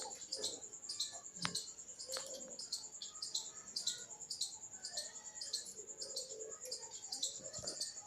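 Small birds chirping quickly and repeatedly over a steady, high-pitched pulsing trill, with two faint knocks.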